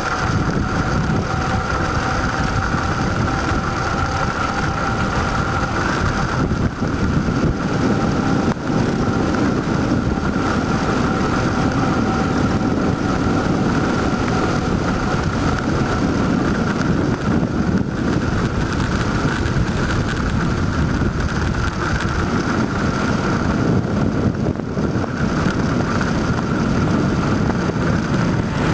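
Wind buffeting a microphone while riding a bicycle: a loud, steady rushing rumble. A thin steady whine runs underneath it.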